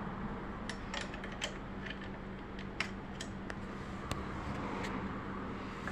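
Scattered light clicks and taps at irregular intervals as sewing machine parts are handled while the shuttle is taken out, over a steady low hum.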